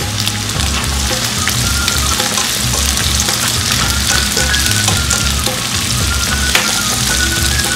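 Onion, carrot and green bell pepper sizzling steadily in hot oil in a nonstick wok as they are stir-fried, with a few short clicks of the spatula against the pan.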